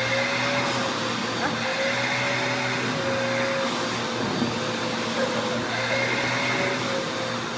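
Vacuum cleaner running steadily while it is used on a cat, its motor tone wavering slightly in pitch over a high whine.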